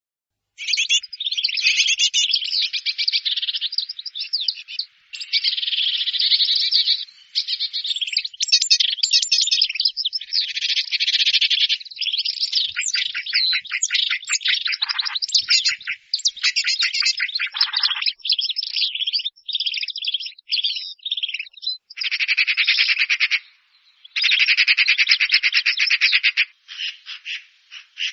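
A songbird singing long, varied phrases of rapid, high trills and chirps, with short pauses between them and a few lower notes.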